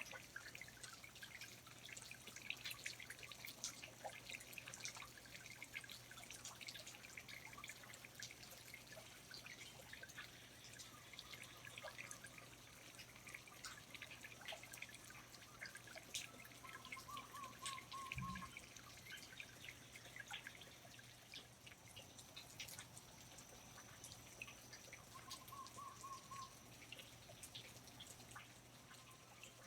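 Faint rainforest ambience of water dripping in irregular, scattered drops. Two short trilled calls come in, about 17 seconds in and again about 26 seconds in.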